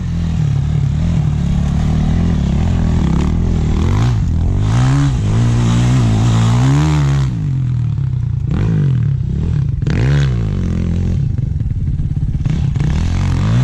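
Dirt bike engine running as the bike is ridden, its pitch rising and falling again and again as the throttle is opened and closed.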